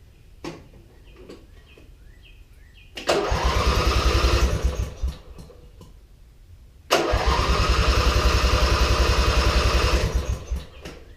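Briggs and Stratton opposed-twin riding-mower engine cranked by its electric starter in two bursts, a short one of about a second and a half and then a longer one of about three and a half seconds. The repaired starter gear engages and the engine turns over with an even, rapid chugging rhythm but does not fire.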